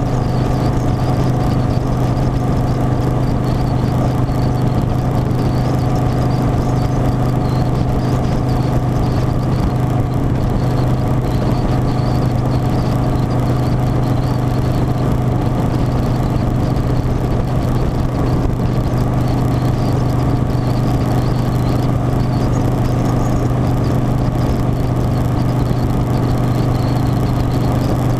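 Harley-Davidson Softail Standard V-twin motorcycle running at a steady, even speed, with a constant low engine hum and a faint high wavering whine over it.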